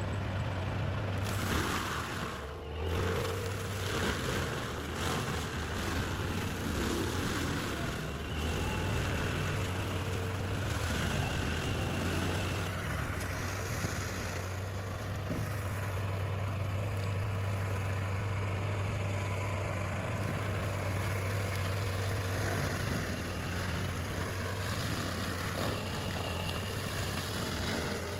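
Stump grinder's engine running steadily with a low drone while its toothed cutting wheel grinds down a tree stump.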